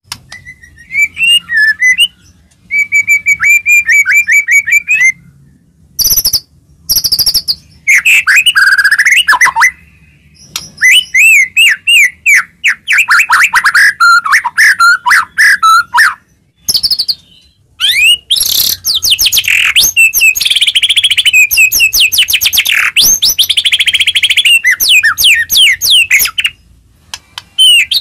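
White-rumped shama (murai batu) singing a fast, varied song: clear whistled notes, then phrases of rapid repeated notes and trills, in bursts with short breaks. The densest, loudest run of rapid notes comes in the second half.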